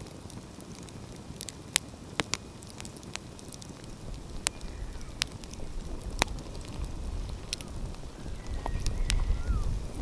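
Wood fire crackling, with sharp pops every second or so over a soft hiss. About four seconds in, a low rumble rises beneath it and grows louder near the end.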